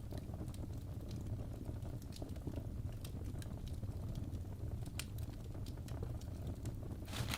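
Fire crackling in a fireplace: irregular sharp pops and snaps over a steady low rumble of the flames, with one louder crackle and brief hiss about seven seconds in.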